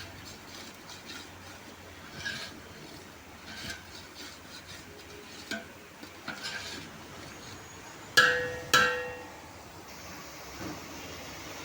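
Cooking utensils clinking against a pot or pan, with two loud ringing clanks about half a second apart roughly two-thirds of the way through.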